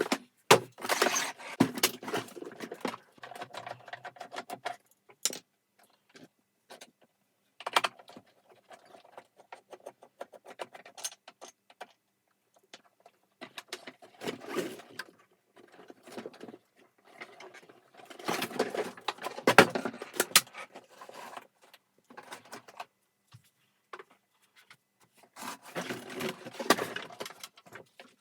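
Hard plastic and metal parts being handled and taken apart, clattering, clicking and scraping in several separate spells with short pauses between.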